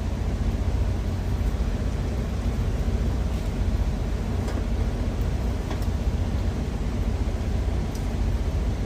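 Empanada frying in oil in a pan, a steady sizzle over a continuous low rumble, with a few faint ticks.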